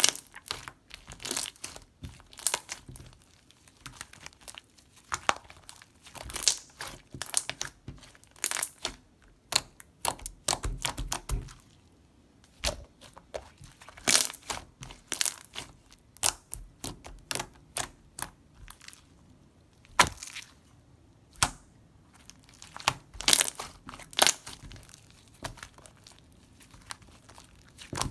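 Mixed water-jelly slime being squeezed and pressed by hand, giving irregular clusters of sharp crackling and popping clicks with short pauses between them.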